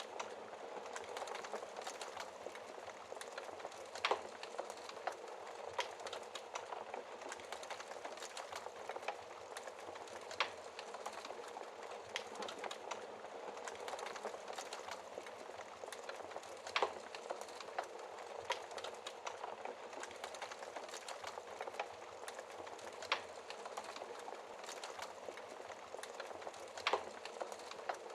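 Fireplace fire crackling steadily, with a sharp louder pop every several seconds.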